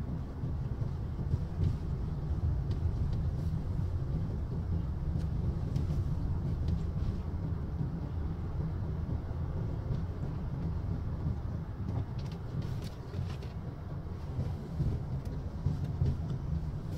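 Steady low rumble of engine and road noise heard from inside a moving vehicle, with a few faint clicks.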